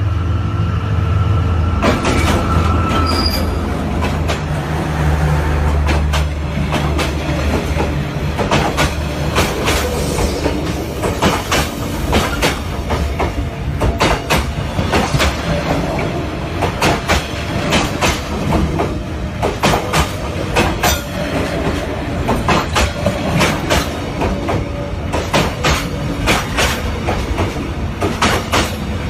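A train running on the rails, its wheels clacking over the rail joints in irregular clusters of sharp clicks. Under the clacks is a steady low rumble, heaviest in the first several seconds, with a thin high tone that fades out about three seconds in.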